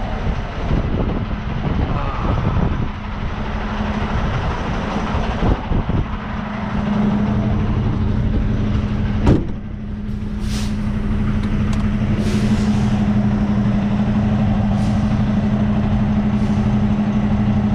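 Semi truck's diesel engine running steadily, with a sharp knock about nine seconds in and then several short hisses of air from the truck's air brakes.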